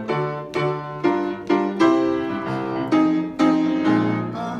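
Piano playing a closing run of struck chords, about two a second, with no voice over it.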